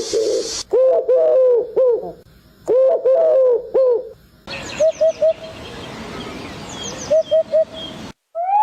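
A dove cooing: two phrases of low, arching notes, then two quick runs of three short notes over a steady hiss.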